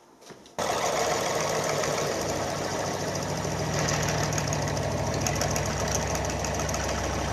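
A machine tool switches on about half a second in and runs steadily while drilling into bronze weld built up in a cast-iron casting.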